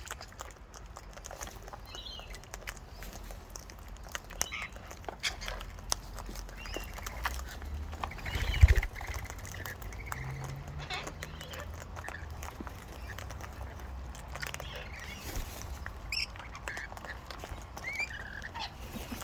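Wild cockatoos and parrots giving short squawks and squeaky calls, among many small clicks, with one loud low thump about halfway through.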